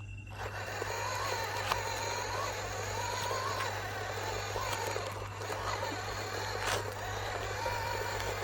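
Small electric motor of a toy truck running, starting about half a second in, with a whine that wavers up and down in pitch, a few clicks, and a steady low hum underneath.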